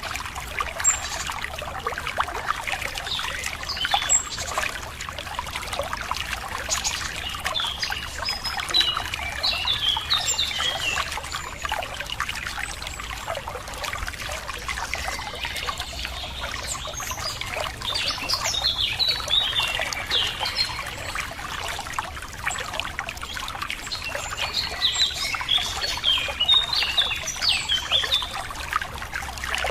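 Running water trickling and splashing steadily, like a small stream, with birds chirping and calling over it in several bursts.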